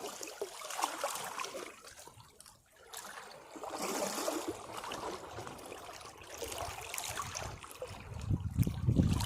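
Sea waves washing against rocks, swelling and draining away in surges, with a brief lull about two and a half seconds in. A bigger, deeper wave comes in near the end.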